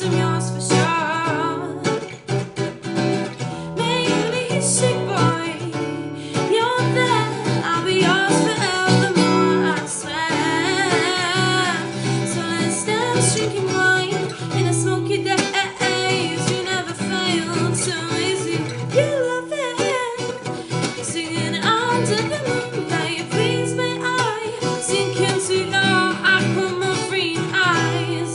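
A song played on acoustic guitar, plucked and strummed, with a singing voice whose words can't be made out.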